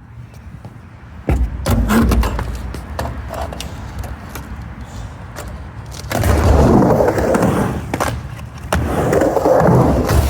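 Skateboard wheels rolling on a mini ramp. There is a sharp knock about a second in, then the roll builds into two louder swells from about six and nine seconds in as the board runs back and forth through the transitions.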